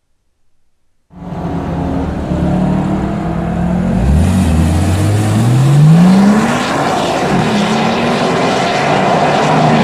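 Car engine running, cutting in suddenly about a second in, then revving up with a steadily rising pitch over a couple of seconds as the car drives off.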